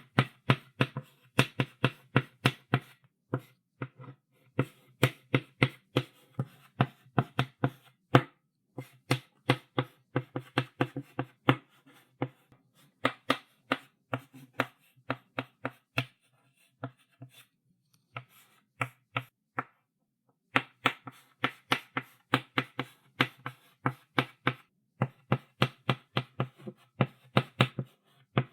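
Chalk writing on a blackboard: quick tapping, clicking strokes at about four a second, in bursts with short breaks. About two-thirds of the way through, the strokes stop for a few seconds before starting again.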